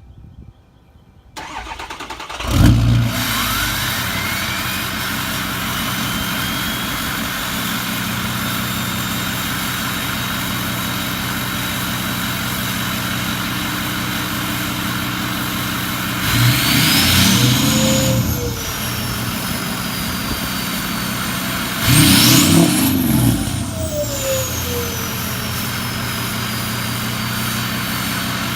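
2005 Ford F-250's 6.0 Powerstroke V8 turbodiesel, straight-piped through a 4-inch MBRP turbo-back exhaust, cranking and catching about two and a half seconds in with a brief flare, then idling steadily. It is revved twice, and the turbo whistle rises with each rev and falls away after it.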